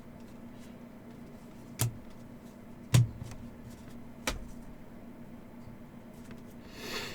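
Three sharp taps, about a second apart, from trading cards and card stacks being handled and set down on a table, over a faint steady hum; a short soft swish near the end.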